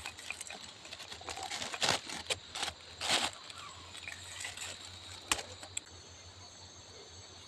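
Scattered rustles and light knocks of hands at work, likely tying a collecting bottle in place, with a sharp click about five seconds in. Under them runs a faint steady high hum of forest insects.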